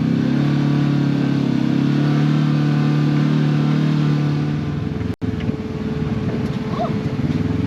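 Side-by-side UTV engine running steadily under way on the trail. The sound cuts out for an instant about five seconds in, then the engine runs on lower and rougher with a steady hum. A short high squeal comes near the end.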